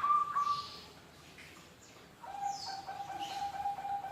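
Zebra doves (perkutut) cooing back and forth. A run of quick, evenly spaced notes ends about a second in; after a short pause a second, lower-pitched coo starts and holds on with a faint pulsing.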